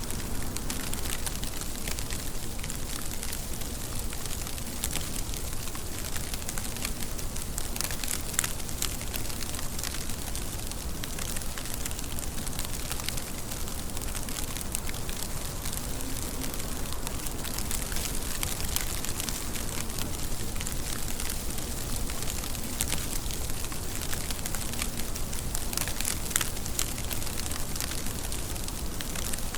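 Steady rain falling, a dense even hiss with many small ticks of individual drops and now and then a sharper, louder drop.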